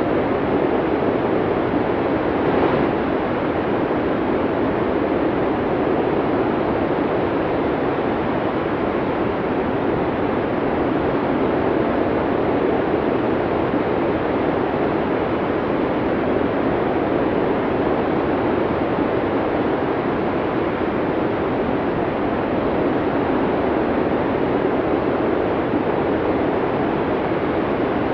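Steady rushing wind of a heavy snowstorm, with a brief stronger gust about three seconds in.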